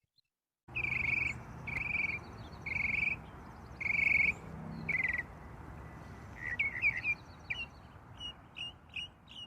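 Birds calling over a steady outdoor background hiss, which cuts in abruptly just under a second in. There are five trilled calls about a second apart, then quicker, shorter chirps.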